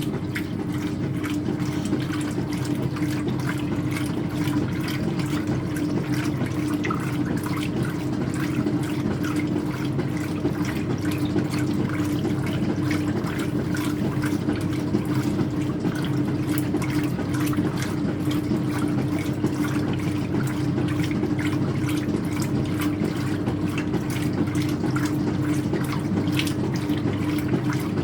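Speed Queen top-loading washing machine agitating a load of towels in water on its light-soil cycle: water sloshing over a steady hum.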